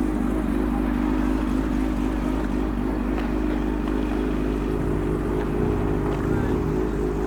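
A car engine running steadily at idle, with no revving.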